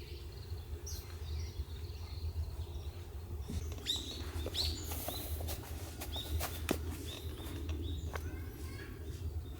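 Small birds calling outdoors: a run of short, high chirps that each drop in pitch, clustered from about four seconds in, with a few sharp clicks, over a steady low rumble.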